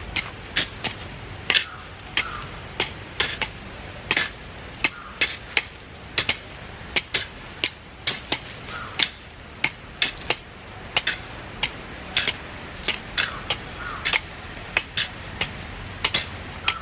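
A hand hoe (mammoty) chopping into soil, with sharp irregular strikes about twice a second as earth is cut and drawn up around the bases of chilli plants.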